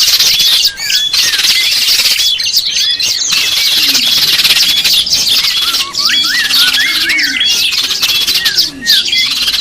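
A chorus of many small birds calling at once: short chirps, whistles and slurred notes overlapping over a dense, steady high hiss. This is the kind of recording played as a lure (pikat) for small wild birds.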